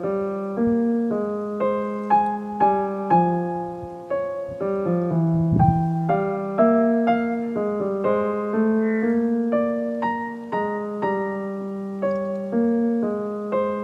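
Soft background piano music, single notes and chords struck about twice a second in a gentle, flowing melody.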